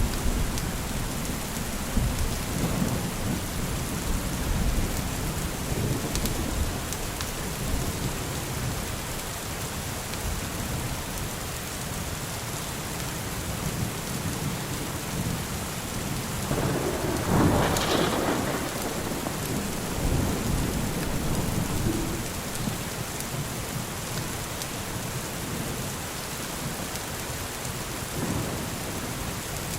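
Steady rain with low, rolling thunder; a louder thunderclap rumbles a little past halfway and dies away.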